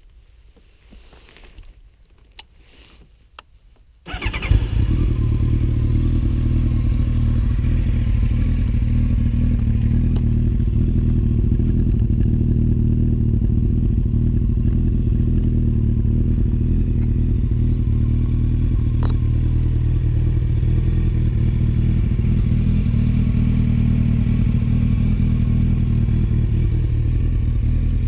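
A few faint clicks, then about four seconds in the Honda CBR1100XX's inline-four engine with an aftermarket exhaust starts and settles into a steady idle. The idle pitch drifts up slightly and drops back near the end.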